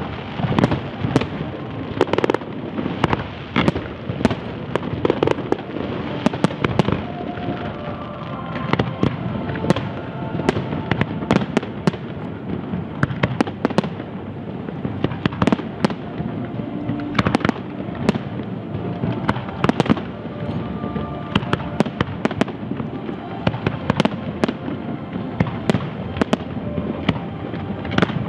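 Large professional aerial fireworks display: a dense, continuous barrage of bangs and crackling bursts, with several strikes each second.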